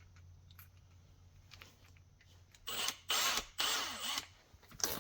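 Short bursts of a cleaning tool working on a lawn-tractor starter motor's armature: three quick bursts a little past halfway, then one brief one near the end.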